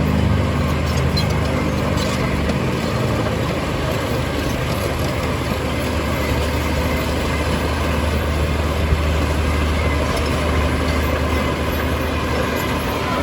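Heavy diesel engine of earthmoving machinery running steadily at a low drone, with one short knock about nine seconds in.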